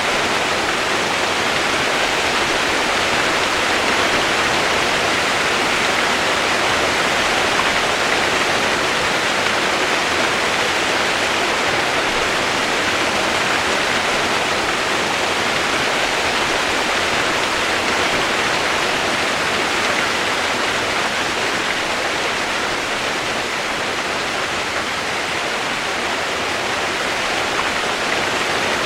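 Steady rain noise used as white noise: an even, unbroken hiss with no separate drops or changes, strongest in the upper-middle range.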